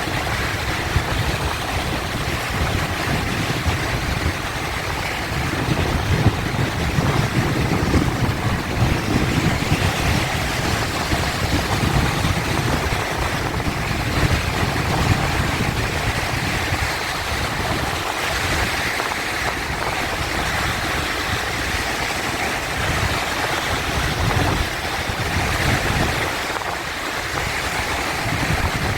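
Sea waves surging and washing, a continuous rush that swells and eases, over a low rumble.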